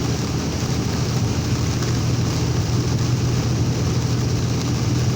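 Heavy rain and strong wind beating on a moving vehicle, heard from inside the cab over a steady low drone of engine and road noise.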